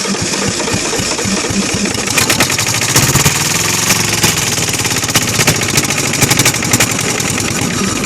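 Kohler KD425-2 two-cylinder diesel engine running with a steady, even knock, struggling to stay running because it is starved of fuel. The sound cuts off suddenly near the end.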